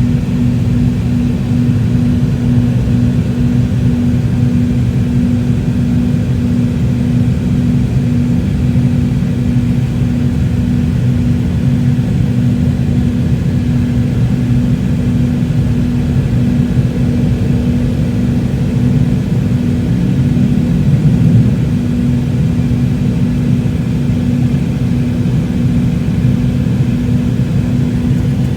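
Steady, loud drone of a McDonnell Douglas MD-88's rear-mounted jet engines heard inside the passenger cabin, with a low hum and rumble that holds unchanged throughout.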